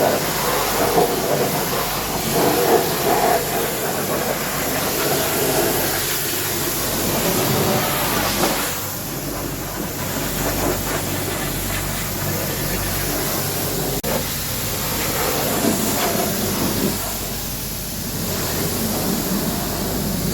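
High-pressure washer jet spraying water onto a truck: a steady hiss that shifts in tone every few seconds.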